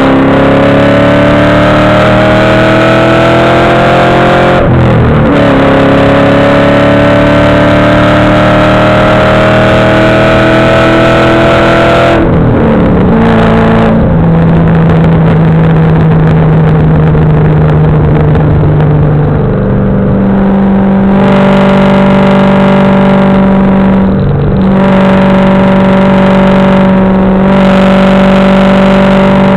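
2007 Ford Mustang GT's 4.6-litre three-valve V8, exhaled through a catless X-pipe and Borla mufflers, pulling hard. Its revs rise twice, each pull broken off briefly about 5 and 12 seconds in, then it runs loud at steady revs, stepping up a little about 20 seconds in, with a short dip near the end.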